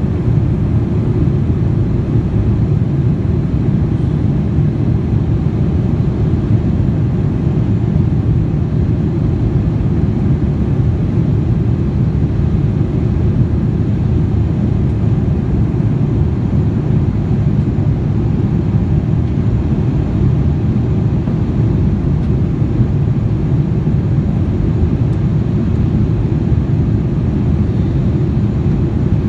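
Steady low rumble of a Boeing 787-9's engines and airflow heard from inside the passenger cabin, even throughout with no changes.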